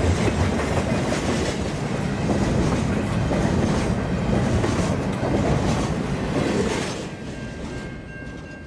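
Double-stack container cars of a freight train rolling past at speed, a steady rumble with wheel clatters every couple of seconds. The sound drops away about seven seconds in as the last car passes and recedes.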